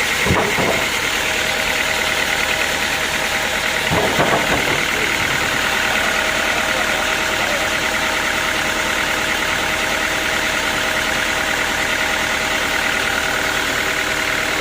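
Sawmill machinery running steadily with a constant drone and whine, with two brief clunks, one just after the start and one about four seconds in.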